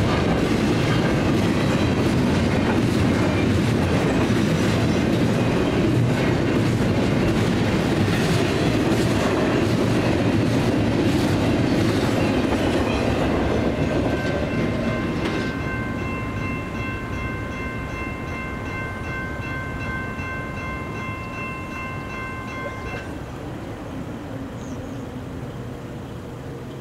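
A double-stack intermodal freight train rolling past, its wheels clicking over the rails, fading out about halfway through as the last car clears. The crossing's electronic bells ring on as a steady high tone and stop about two-thirds of the way through, as the gates start to rise.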